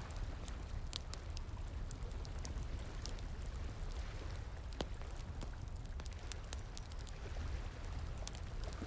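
Wood fire crackling, with irregular sharp pops over the steady rush of flowing water.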